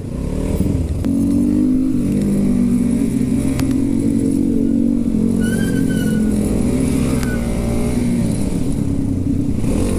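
Motorcycle engine running at a steady cruising speed, its note swelling about a second in and then holding steady. A brief, faint high tone sounds about halfway through.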